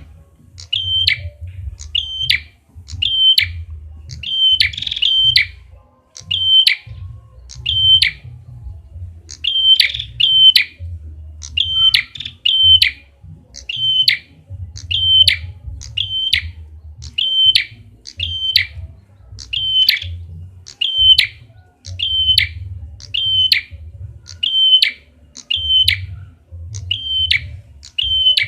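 Red-headed prenjak (prinia) lure call: a sharp, high double note repeated about once a second, with a low rumble underneath.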